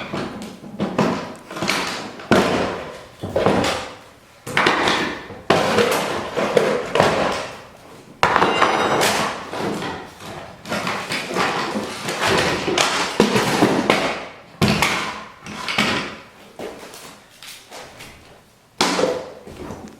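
Boxes being smashed and broken apart: a run of repeated knocks, crashes and cracking, often one or more a second, with short pauses between.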